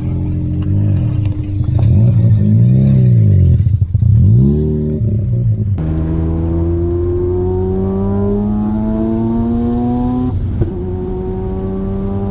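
A car engine revs up and falls back twice. After an abrupt cut near the middle, it accelerates hard with its pitch climbing steadily alongside a rising high whine, drops sharply at a gear upshift about ten and a half seconds in, and pulls again.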